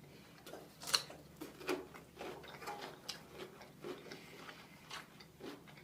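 Quiet eating sounds: scattered small clicks and taps, the sharpest about a second in, with faint chewing between them.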